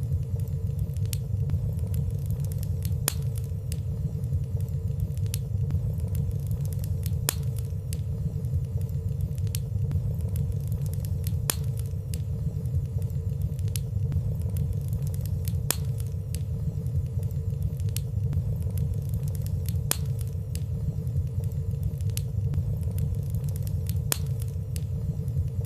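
Wood fire burning in a fireplace: a steady low rumble of flames with small, irregular crackling ticks scattered through it and a faint steady hum underneath.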